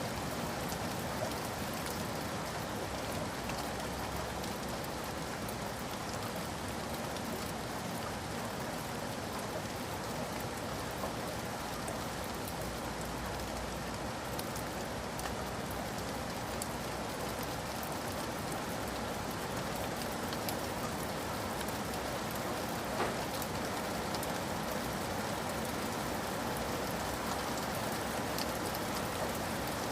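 Steady rain falling and pattering on a surface, with individual drops ticking over an even hiss and one sharper drop about 23 seconds in.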